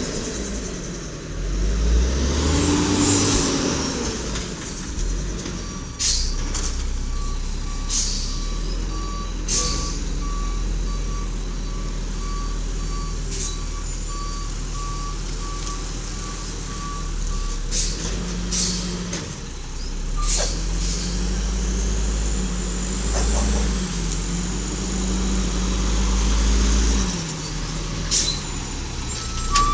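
Garbage truck running, with a backup alarm beeping steadily for about twelve seconds and several short air-brake hisses. In the second half the engine speeds up and slows down a few times.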